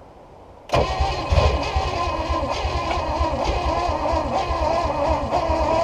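Small block Chevy 350 V8 inboard boat engine being cranked over by its starter, starting abruptly about a second in and chugging rhythmically as it tries to fire after decades of sitting.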